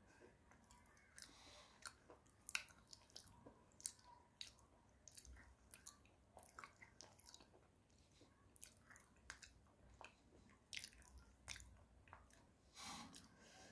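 Close-miked chewing of a white clay (slate) bar: faint, irregular sticky mouth clicks and small crunches, a couple a second, as the powdery clay mixes with saliva into a sticky paste.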